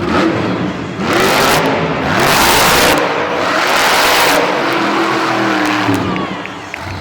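Monster truck engine revving hard in repeated loud surges, then settling to a lower, steadier run near the end.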